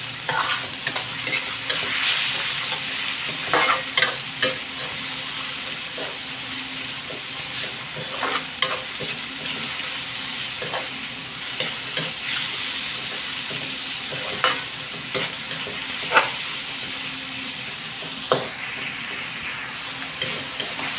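Sliced pork, garlic and onion sizzling in an aluminium wok as they are sautéed until the pork turns white, with a metal spatula stirring and scraping, knocking against the pan now and then.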